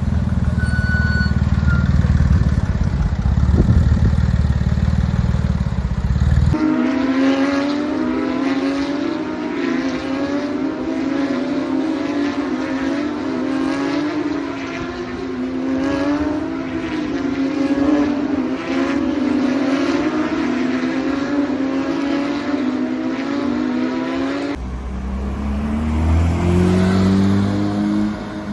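Porsche sports car engines in three spliced clips, revving and accelerating with the pitch rising repeatedly. The sound changes abruptly twice, about six seconds in and again near the end, as a new clip begins.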